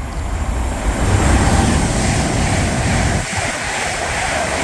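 Class 390 Pendolino electric train passing close by: a loud, steady rush of air with a deep wheel-on-rail rumble, dipping briefly about three seconds in.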